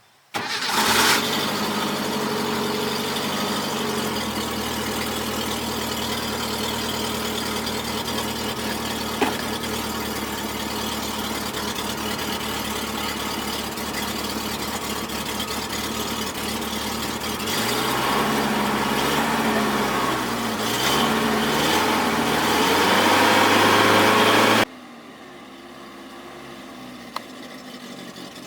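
5-ton Toyota truck's engine catching quickly on starting and idling steadily, after a repair to the electrical wiring fault that had kept it from starting. For several seconds near the end it is revved up and down, then it is switched off abruptly.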